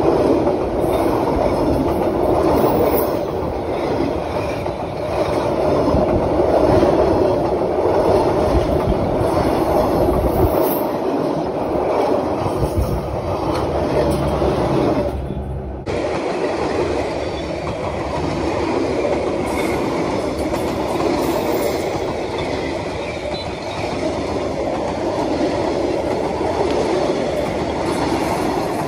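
Vietnam Railways passenger coaches rolling past close by: steady noise of steel wheels and bogies running over the rails. About halfway through, the sound dips and changes abruptly at a cut to another take.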